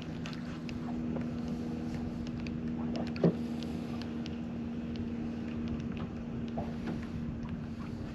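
Electric trolling motor on a boat running with a steady hum. Scattered light ticks and splashes, and one sharp knock about three seconds in.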